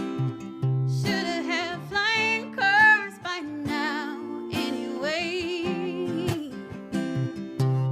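A woman singing a song, her voice sustaining notes with a wide vibrato, over a strummed acoustic guitar.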